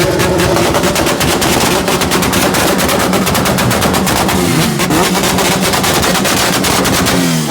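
A vehicle engine revving, its pitch rising and falling, with a rapid stream of sharp crackling exhaust pops.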